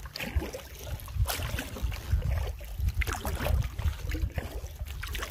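Canoe paddling: irregular paddle splashes and water sounds against the hull, over a steady low wind rumble on the microphone.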